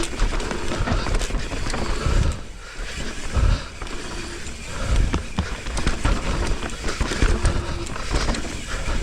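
Mountain bike descending a rough dirt trail: tyres rolling over dirt and wind rushing on the microphone, with repeated heavy thumps as the bike hits bumps and a few brief squeals.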